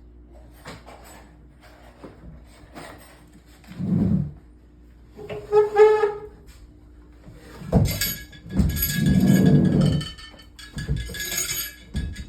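Knocks, clinks and rumbling as a staircase is worked into place with a block and tackle, with a thump about 4 s in and a pitched squeal of about a second shortly after. The louder rumbling stretch near the end carries metallic clinks.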